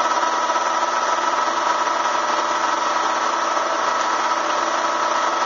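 Bee vacuum's electric motor running steadily with an unbroken high whine.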